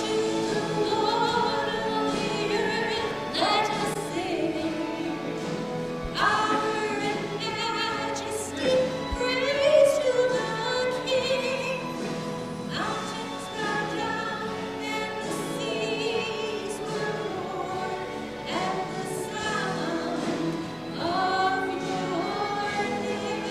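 Choir singing sacred music in sustained phrases, with a new phrase starting every few seconds.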